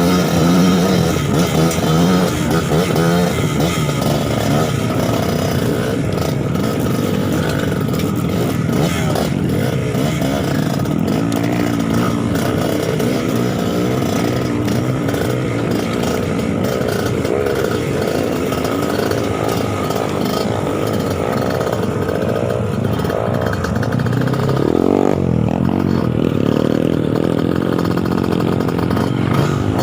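Trail motorcycle engine running continuously, its revs rising and falling over and over as the throttle is worked.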